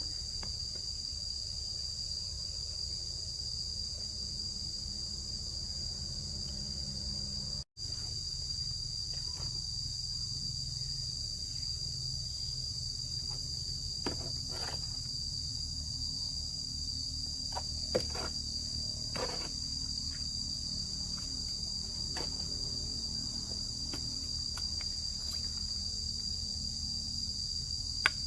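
Steady, high-pitched chorus of insects chirring outdoors, with a few faint knocks in the second half.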